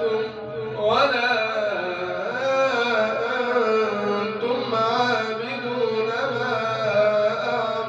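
A man's voice chanting Quran recitation in the melodic, drawn-out tajweed style, holding long notes that bend slowly in pitch.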